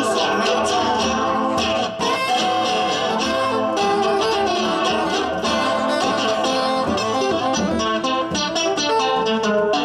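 Live band playing an instrumental break with strummed guitar and other instruments, no singing.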